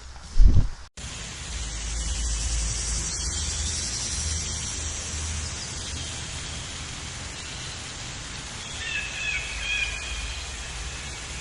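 A loud low thump, then a sudden cut to steady outdoor noise like wind on the microphone, with a few faint bird-like chirps near the end.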